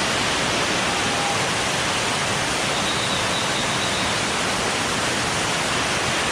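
Waterfall: a loud, steady rush of falling water with no change.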